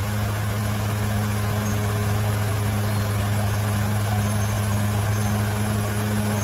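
Bulldozer's diesel engine running steadily at an even pitch, a low drone with no revving.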